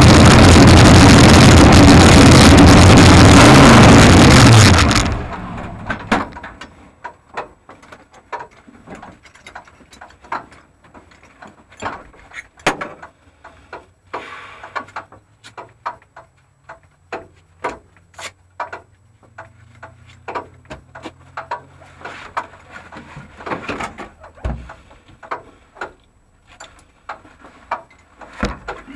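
540 ci big-block Chevrolet V8 running very loud close to the microphone, then shutting off about five seconds in. After that, only scattered clicks and knocks from inside the car.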